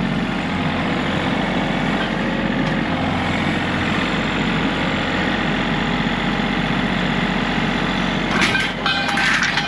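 Vehicle engine running steadily at idle, with metallic clattering and a high steady squeal near the end.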